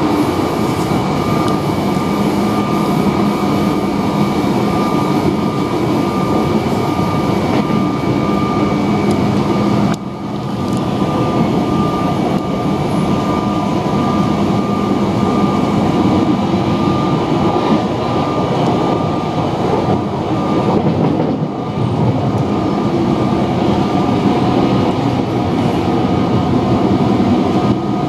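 MTR Metro-Cammell electric train running along the track, heard from inside the cab: a steady rumble of running noise with a constant whine. The sound dips briefly about ten seconds in.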